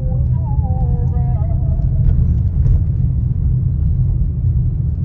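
Steady low rumble of a car driving through city traffic, engine and road noise.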